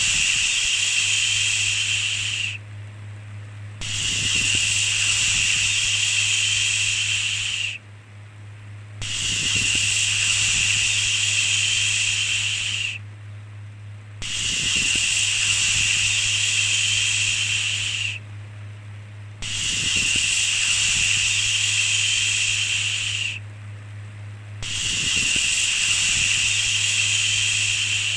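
A 'shhh' shushing sound repeated about every five seconds, each shush lasting about four seconds with a short pause between, over a steady low hum.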